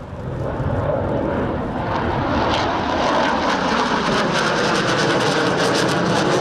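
MiG-21 jet fighter flying by, its engine noise growing louder over the first few seconds, with a fast crackle from about four seconds in.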